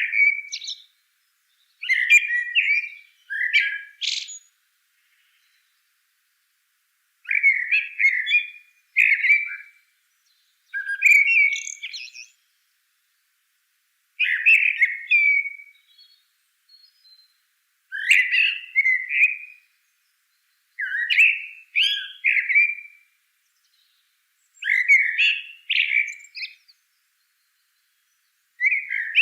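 A songbird singing short warbled phrases of a second or two each, repeated about every three seconds with silent pauses between them.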